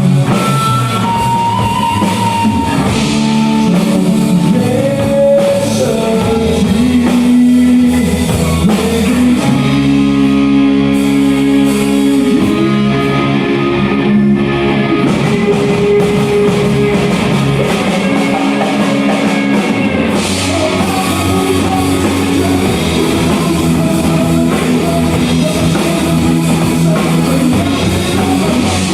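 A rock band playing with electric guitar and drum kit, sustained pitched guitar or vocal lines over a steady, dense backing.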